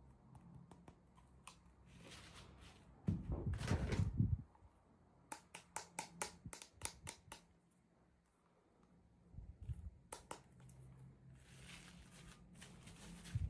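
Hands handling and opening small plastic toy packaging: scattered clicks and taps, with a short burst of low rubbing noise about three seconds in and a soft rustle near the end.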